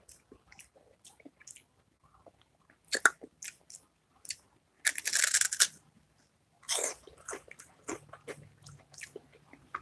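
A person biting and chewing a crunchy chip close to the microphone: irregular crisp crunches, with louder, longer crunches about five seconds in and again about seven seconds in.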